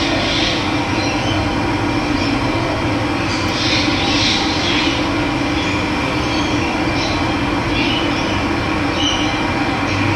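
Steady rush of running water, an even continuous noise with a brighter hiss in the high range.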